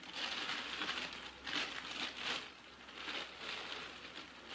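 Plastic crinkling in irregular bursts as squishy toys are handled and sorted.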